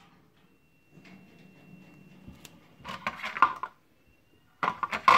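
Hard PLA 3D-printed parts being handled, clicking and knocking against each other and the bench in two short bursts, about three seconds in and again near the end.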